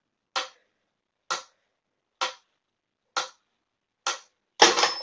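Mechanical metronome ticking steadily, a sharp click a little under once a second. Near the end comes a louder, ragged clatter.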